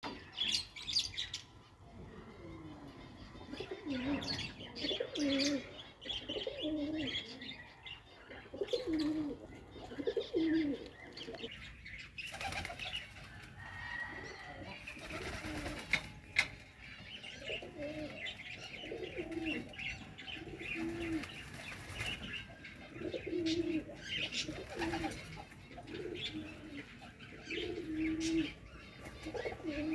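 Pigeons cooing over and over in low, rolling notes, with higher chirps from small birds mixed in and a few short noisy rustles around the middle.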